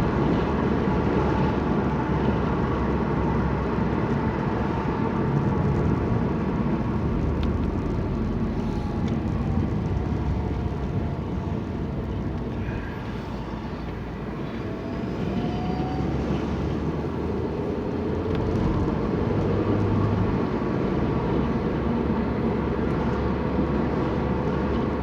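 Steady road and engine noise of a car being driven, heard from inside the cabin, easing off slightly about halfway through.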